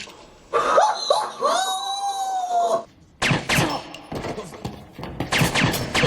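A person's drawn-out, high-pitched scream lasting about two seconds, its pitch wavering, followed after a brief pause by agitated voices.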